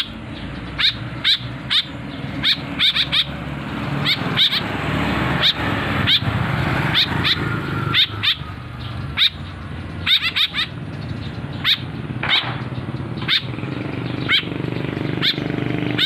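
Young caged birds calling: many short, sharp calls, each falling in pitch, often two or three in quick succession, over a steady low hum.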